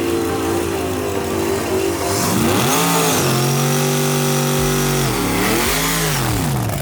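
Drag race car engine revving: it runs steadily, dips, then climbs and holds high revs for about two seconds, then drops, picks up again and falls off near the end.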